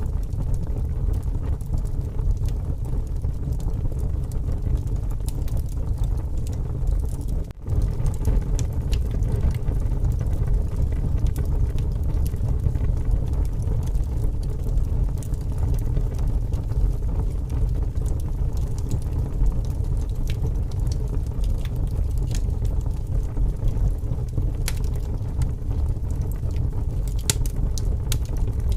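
Wood campfire burning with scattered crackles and pops over a steady, heavy rumble of strong wind, with a brief dip in level about seven seconds in.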